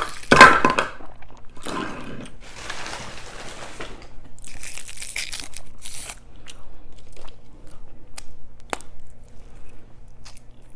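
Food packaging crinkling and tearing, loudest in the first second and again in a crackly stretch midway, followed by scattered light clicks and taps.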